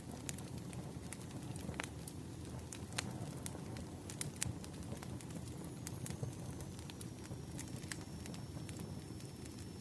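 Wood fire burning, with irregular sharp crackles and pops of the logs over a low steady rumble of the flames. A faint thin high whistle comes in about six seconds in and sinks slightly.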